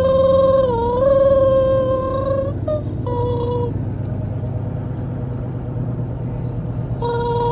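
Long held vocal notes at a medium pitch over the steady rumble of a car on the road. The first note lasts about three seconds and dips slightly in pitch partway through. Two short notes follow, then another held note begins near the end.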